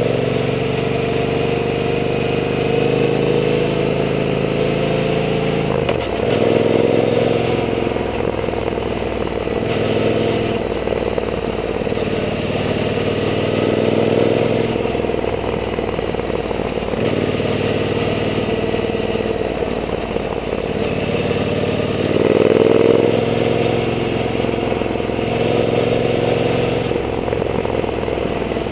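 Triumph Bonneville T120's 1200 cc parallel-twin engine running through a Zard aftermarket exhaust while riding. The note rises several times as the throttle opens, then eases back.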